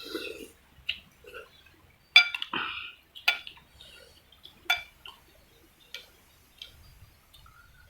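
Metal utensils clinking against a soup bowl while eating noodle soup: a handful of sharp, ringing clinks at uneven intervals, the loudest a little after two seconds, after three seconds and near five seconds, with softer scrapes between.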